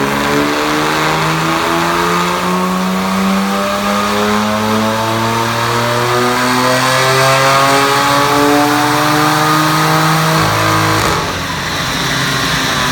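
BMW 335i's N54 twin-turbo straight-six, fitted with TD04 17T turbos, making a dyno pull on the rollers: the revs climb steadily for about eleven seconds. Near the end the throttle closes and the engine note drops away abruptly.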